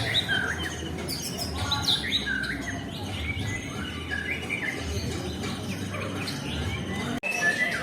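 White-rumped shama (murai batu) singing: a run of quick, varied whistled phrases and chirps that breaks off for a moment near the end.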